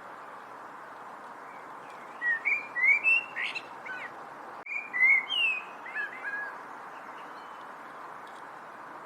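A songbird singing two short bursts of quick chirps and slurred whistles, about two seconds in and again near five seconds, over a steady background hiss. A single faint click falls between the two bursts.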